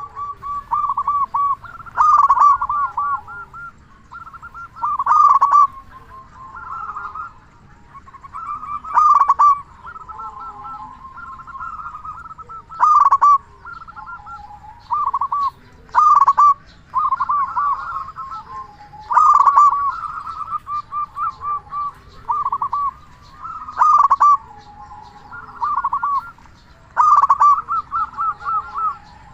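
Local zebra dove (perkutut) cooing its song over and over: a loud phrase of quick, rippling coos about every three to four seconds, with softer cooing between.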